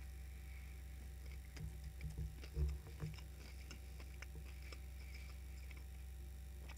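A person chewing a mouthful of crispy breaded chicken burger close to the microphone, with soft crunches and mouth clicks that cluster in the first half, the loudest a little over two seconds in, over a steady low hum.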